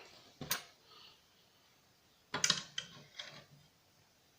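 A sharp click, then about two seconds in a quick run of light knocks and clatters from hard objects being handled.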